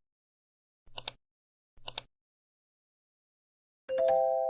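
Edited intro sound effect: two quick double clicks about a second apart in dead silence, then near the end a bright three-tone chime that strikes and rings on, fading slowly.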